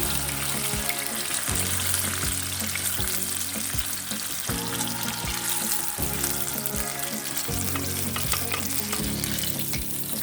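Breaded chicken nuggets frying in a pan of hot oil: a steady sizzle. Soft background music plays underneath.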